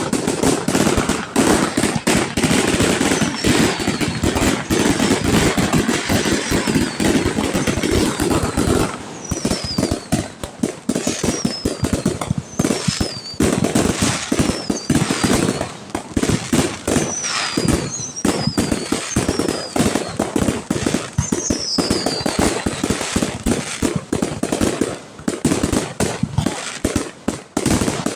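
Fireworks display: a dense, continuous barrage of bangs and crackling, heaviest in the first several seconds, with a string of short high whistles falling in pitch through the middle stretch.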